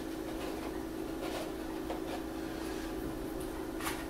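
Steady electrical hum with a few faint rustles of paper being handled, the last one, near the end, a little louder.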